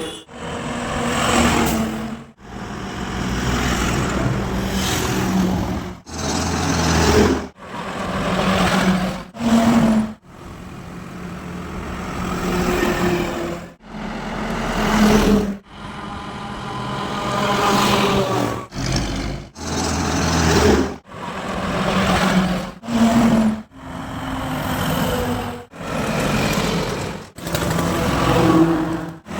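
Heavy trucks passing on a highway, with engine and tyre noise, broken into short stretches by abrupt cuts every second or two.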